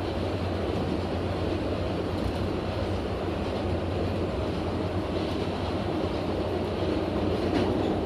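Steady rumble of a Metra commuter rail car in motion, heard from inside the car: wheels running on the rails and the car's running noise, growing slightly louder near the end.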